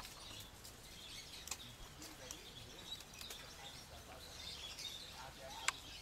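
Faint chirping of birds, short high chirps scattered through, with a few sharp clicks, the loudest near the end.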